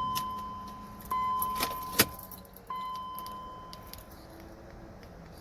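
Electronic warning chime in the BMW X5's cabin sounding three times, each a single clear tone that fades away, during a failed attempt to start the car. A sharp click about two seconds in.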